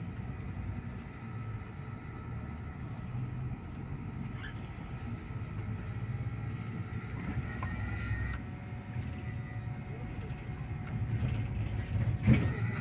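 Cabin noise of a MAZ-215 articulated diesel bus under way: a steady low engine and road rumble with a faint high whine. There is a single sharp knock about twelve seconds in.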